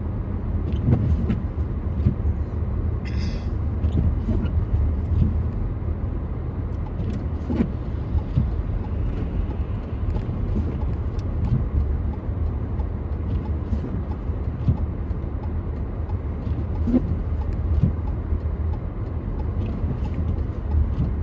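Car interior road noise while driving on a snowy road: a steady low rumble from the tyres and engine, with many small scattered ticks and knocks. A brief higher-pitched sound comes about three seconds in.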